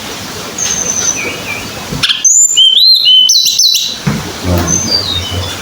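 Tledekan gunung songbird singing: soft scattered chirps, then about two seconds in a loud two-second phrase of clear whistled notes that glide up and down, then softer chirps again.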